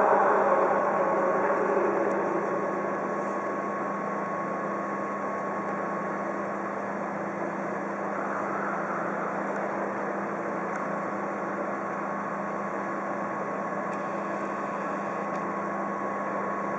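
Siemens Desiro railcar running steadily, a low hum with a thin steady whine on top. A louder noise fades away over the first two or three seconds.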